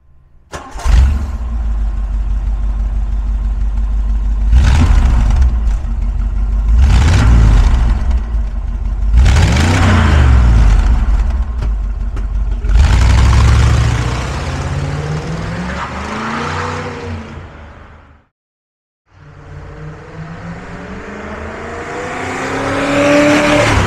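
1956 Ford Thunderbird's 312 cu in Y-Block V8 firing up through its exhaust, then idling with a lumpy note and revved four times, each rev falling back to idle. After a short break, the V8 is heard accelerating, its pitch and loudness rising to a peak near the end.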